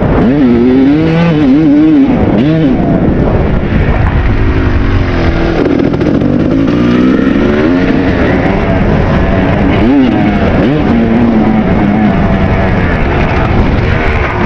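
Kawasaki KX250 two-stroke single-cylinder dirt bike engine being ridden hard, its pitch rising and falling over and over as the throttle is opened and closed.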